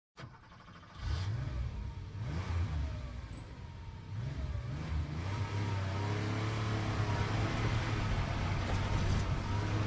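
Car engine accelerating, its pitch climbing and dropping back several times as it works through the gears, then holding a steady pitch from about halfway through.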